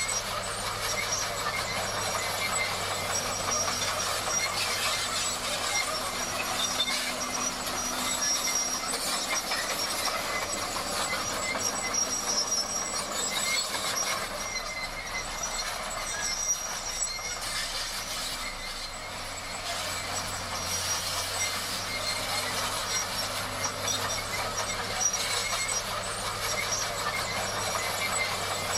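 Komatsu D58 crawler bulldozer working, its diesel engine humming steadily under the clatter and high squeal of its steel tracks.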